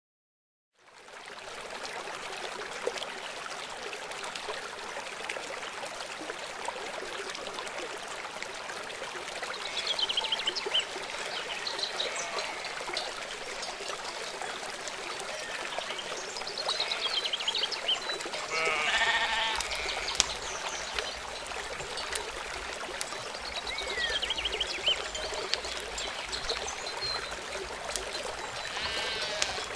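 Outdoor ambience of running water with scattered bird chirps, fading in at the start; an animal bleats once a little past the middle.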